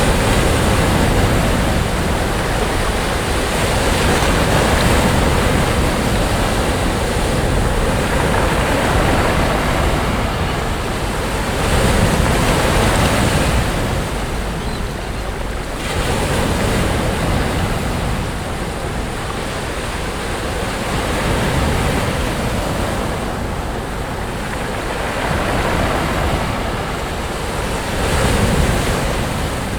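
Sea waves breaking and washing onto a beach, a continuous rush that swells and eases every few seconds, with a low wind rumble on the microphone. The sound begins to fade at the very end.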